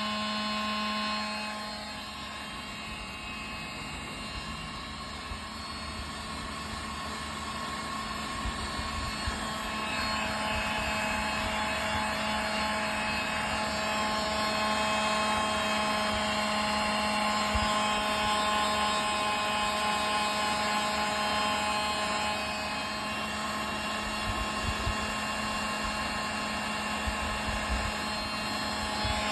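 A steady machine whir with a constant hum, growing somewhat louder about ten seconds in, with a few faint low knocks.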